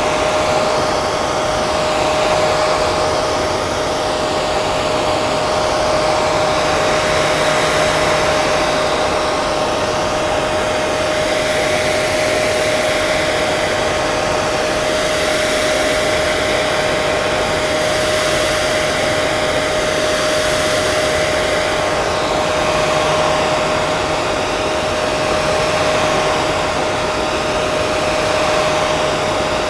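Hair dryer running steadily: a continuous rush of air with a steady motor whine held at one pitch, wavering only slightly.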